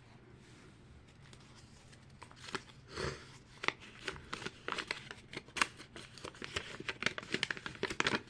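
Small plastic toy parts and packaging being handled and rustled, with a rapid run of small clicks and crinkles that starts about two seconds in.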